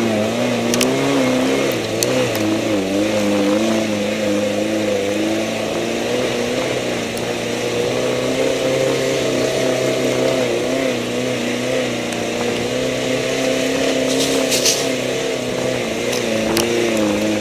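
Suzuki Samurai's engine pulling steadily as the 4x4 crawls up a steep dirt slope, its pitch wavering slightly with the throttle. A few sharp clicks sound over it, the loudest cluster about fifteen seconds in.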